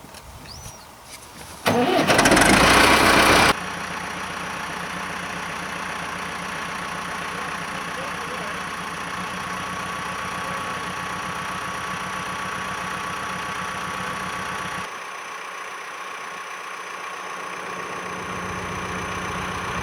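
Tractor engine starting with a short loud burst about two seconds in, then running steadily; it drops a little quieter and thinner about fifteen seconds in.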